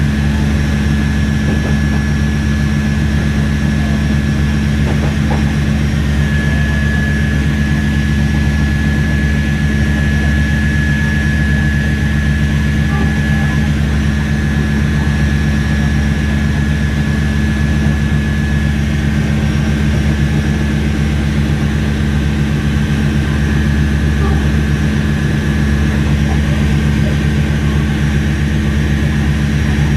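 Cummins QSK45 V12 diesel engine of a diesel-electric multiple unit running steadily as a generator set, its exhaust note more prominent than the engine itself. A thin, steady high whine runs alongside it.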